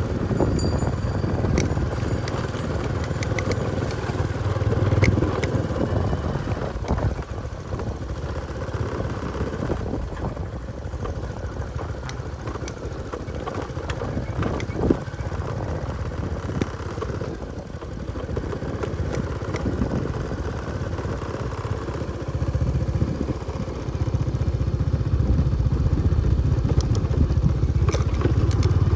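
Motorcycle engine running while riding, with knocks and rattles over a bumpy dirt track. It gets louder about four-fifths of the way through.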